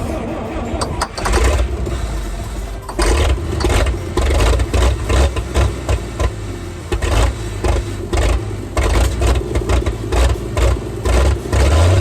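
1957 FWD 4x4 truck engine being cranked over by the starter in an attempt to start it after decades unused. From about three seconds in it gives loud, uneven pulses at roughly three a second.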